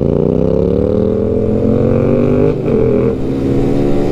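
Benelli BN 125's single-cylinder engine accelerating, its pitch climbing, then an upshift about two and a half seconds in drops the revs before it pulls again.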